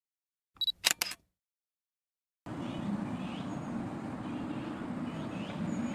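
Three quick camera shutter clicks, a little under a second in, in otherwise dead silence. From about halfway through, a steady outdoor background with faint, repeated short chirps.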